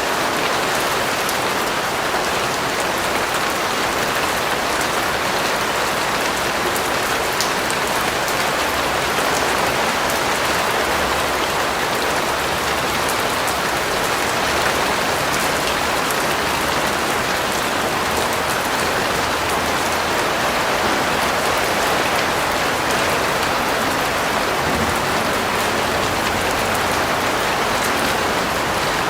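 Steady rain falling and pattering on a surface, an even hiss of drops with no let-up.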